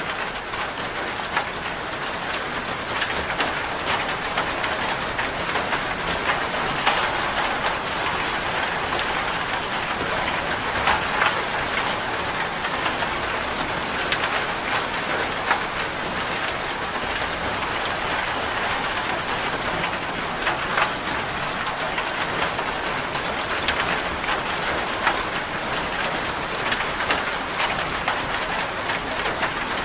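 Steady rain falling, an even patter of drops with scattered sharper ticks.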